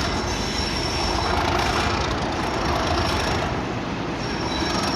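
Test train hauled by Class 37 diesel locomotives running through the station: a steady rumble of wheels on rail, with a faint, thin high wheel squeal that comes and goes.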